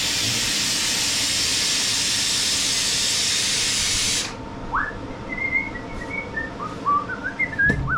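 Air-operated lift table being lowered, its released air hissing loudly and steadily for about four seconds before cutting off sharply. A few short, faint chirps follow.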